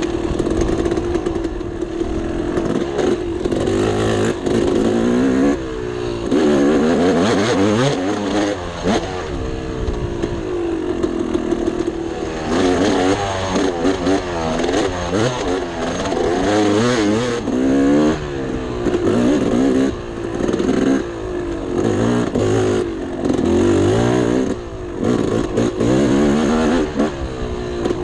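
Dirt bike engine revving up and down over and over as it is ridden off-road, pitch climbing and dropping every second or two with brief drops in throttle, plus scattered clattering knocks.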